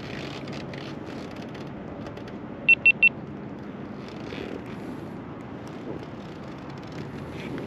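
Motorcycle running on the road, with steady engine, wind and road noise. About three seconds in come three quick high beeps in a row, the loudest sound here.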